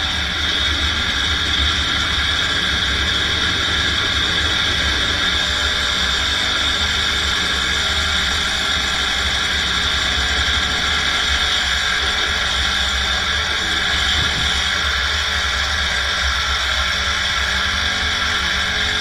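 Electric power tool motor running steadily at constant speed with a strong high whine, which starts abruptly just before this point and does not change.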